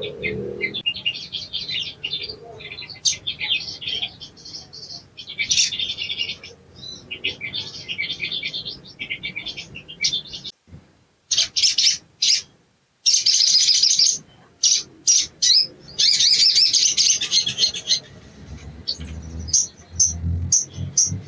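Sogon (little spiderhunter) song: rapid chattering runs of high, sharp notes, broken by brief pauses. Near the end the song gives way to a series of separate sharp chips.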